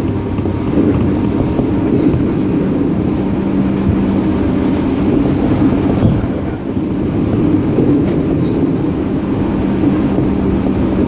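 Running sound inside a JR 205-series electric multiple-unit car at speed: a steady rumble of wheels on rail, with a low hum that fades in and out and a few light clicks over rail joints.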